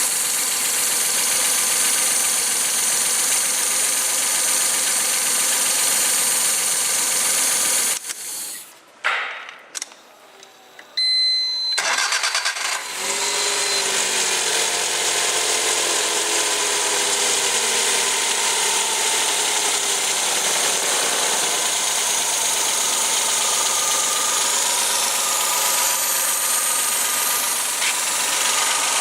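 Suzuki K6A 660 cc three-cylinder engine running, switched off about eight seconds in, then cranked and restarted about three seconds later, its revs falling back and settling to a steady idle.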